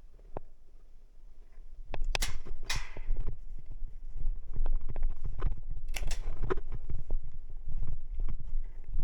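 Rustling and handling noise close to the microphone, with a low rumble and many small clicks and knocks. It starts about two seconds in, with two louder noisy rustles near the start and in the middle.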